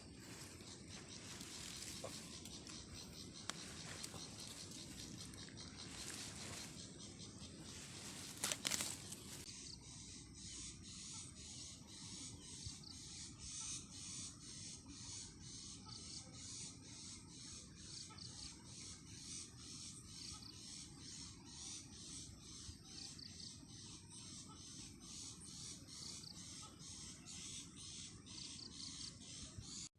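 Outdoor natural ambience: an even rustling hiss for the first third, a brief louder sound about nine seconds in, then a steady rhythmic insect chirping at a few pulses a second.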